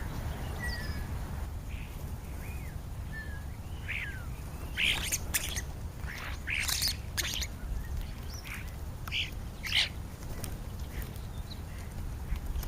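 Birds calling: a few short whistled and slurred notes, then a run of loud, harsh, raspy calls in the middle, over a steady low background rumble.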